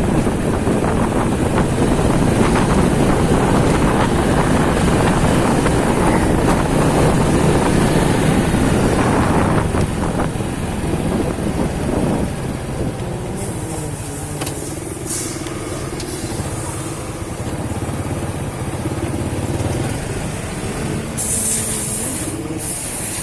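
Riding a motorcycle through city traffic: dense wind, road and engine noise, which drops after about twelve seconds to a quieter, steady engine hum.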